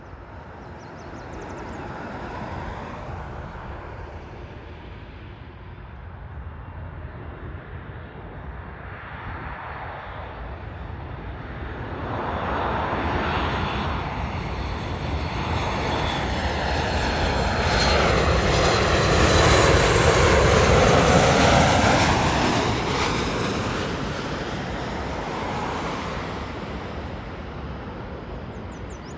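Boeing 737's twin jet engines on landing approach, passing low overhead: the engine noise builds to its loudest about twenty seconds in, with a high fan whine and a sweeping, phasing sound as it passes, then fades as the airliner moves away toward the runway.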